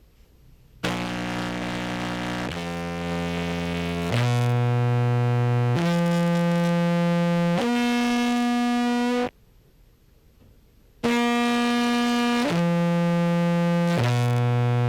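Contrabass clarinet played through fuzz and compression pedals, holding long distorted notes of about a second and a half each that step from one pitch to the next: five notes, a break of about two seconds, then three more. These are test notes for how evenly the compressor levels the volume from note to note; the first two sound a little quieter than the rest.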